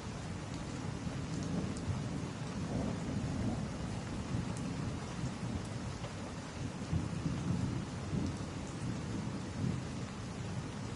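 Steady rain with a low rumble that swells and ebbs underneath, and a few faint crackles from a wood fire.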